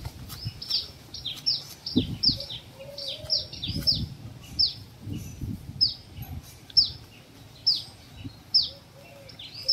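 Birds chirping: a steady run of short, quickly falling high chirps, about one to two a second, with a few low muffled sounds in between.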